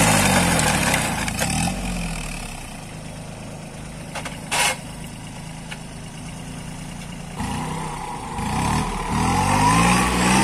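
Kubota 21 hp tractor's diesel engine changing speed: its pitch swings up and down at the start, settles to a lower, quieter steady run through the middle, then rises again near the end. A short rushing noise stands out about halfway through.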